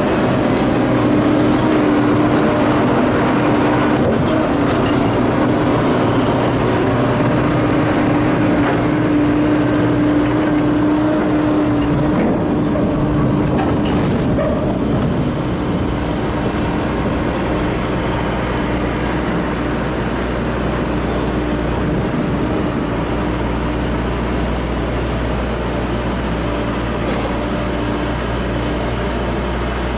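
Union Pacific freight cars rolling past close by: a steady rumble of wheels on rail. A steady tone rides on top for the first twelve seconds or so, and then the rumble eases slightly.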